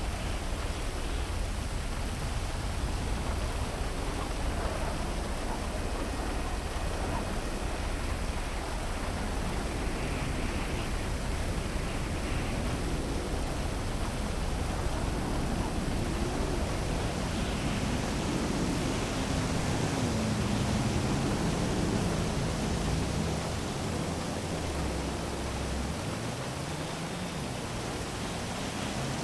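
Heavy rain falling over a city, a steady dense hiss. Through the second half a low engine hum rises and falls in pitch beneath it, like passing traffic.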